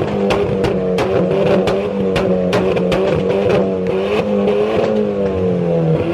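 A car engine running, its pitch easing down near the end as the revs fall, under a music track with a steady drum beat.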